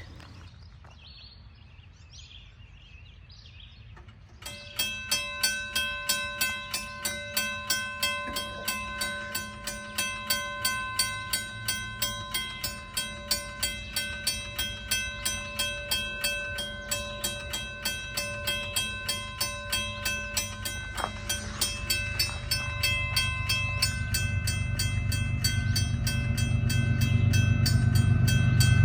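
Level-crossing signal bell starts ringing about four seconds in, two to three strokes a second. A low rumble from an approaching freight train builds up and grows louder towards the end.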